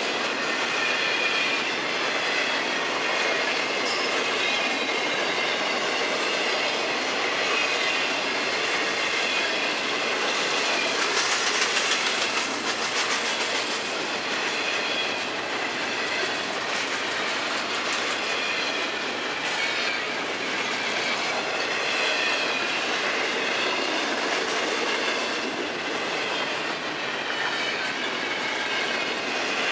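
Freight train's intermodal cars (double-stack container well cars and flatcars) rolling past steadily, wheels clacking over the rail joints, with a faint wavering high-pitched wheel squeal.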